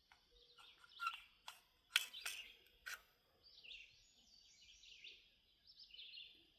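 Sharp metallic clicks and clacks of a Kimber CDS9 9 mm pistol being handled with its slide locked back, as the magazine is released and pulled out. The loudest click comes about two seconds in, and the handling stops after about three seconds. Faint chirping goes on in the background.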